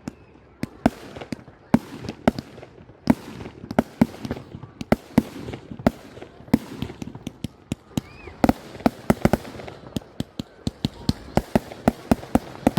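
Fireworks going off: a rapid, irregular series of sharp bangs that comes thicker and faster toward the end.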